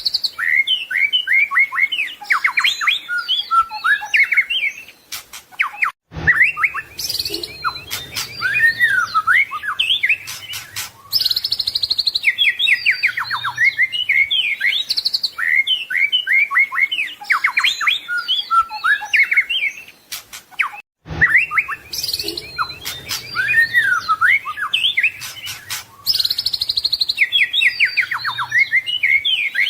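White-rumped shama singing a long, fast run of varied whistles, trills and sweeping notes, its song full of mimicked phrases of other birds ('isian'). The same passage repeats about every fifteen seconds, each repeat starting after a short break.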